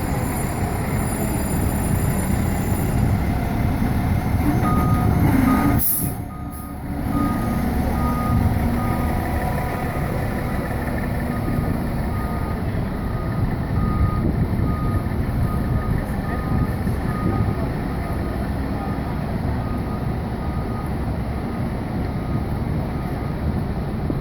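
Fire engine running and backing up, its reversing alarm beeping evenly over the diesel rumble from about five seconds in.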